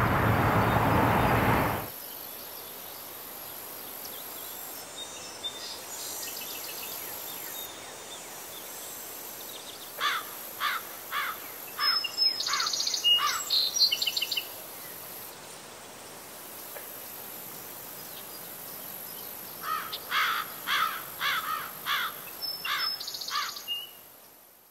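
A loud rush of outdoor noise for about two seconds, then a quiet open-air background in which a songbird sings twice, each song a quick run of short falling chirps, about two or three a second.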